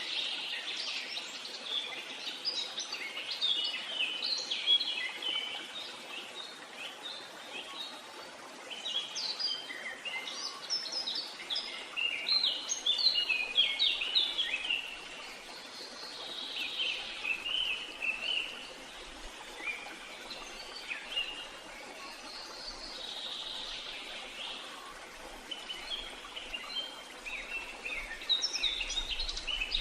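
Birds chirping and singing, with many quick short notes overlapping in dense bursts and brief lulls, over a steady hiss of background noise.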